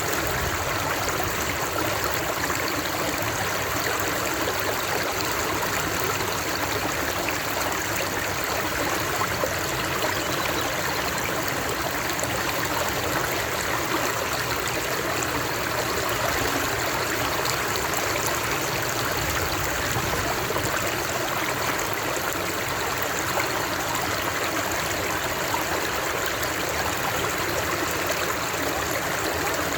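Running water of a stream, flowing steadily and evenly with no change in level.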